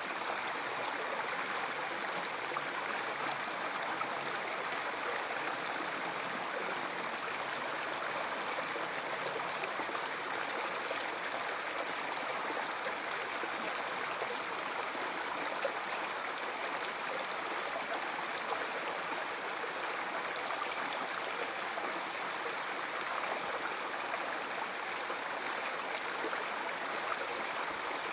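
River water flowing steadily over stones: an even, unbroken rush and gurgle.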